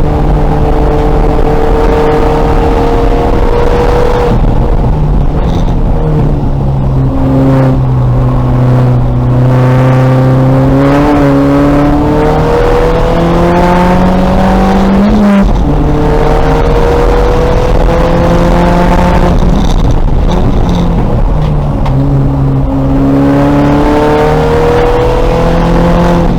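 2000 VW Golf race car engine at racing speed, its pitch rising and falling repeatedly as it accelerates and eases off. There is a long climb to a peak about fifteen seconds in, then a sudden drop.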